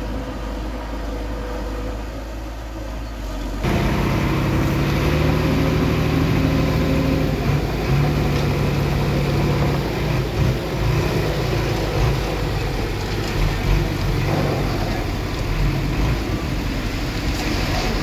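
Diesel engine of heavy earthmoving machinery running. A little under four seconds in, the sound jumps abruptly louder, and the engine note then wavers up and down.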